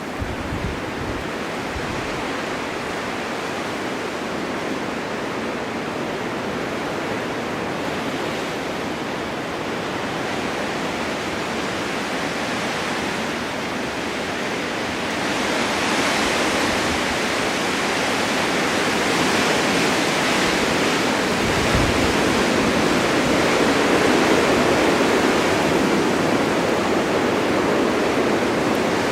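Blizzard wind driving snow on a mountain: a steady, rushing roar that grows louder and brighter about halfway through as a gust builds.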